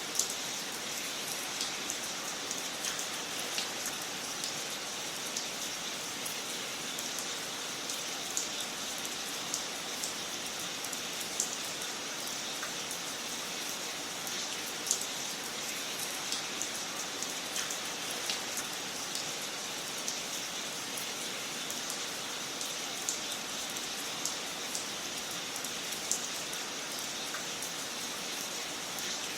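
Wood fire crackling in a fireplace: a steady hiss with irregular sharp pops and snaps scattered throughout.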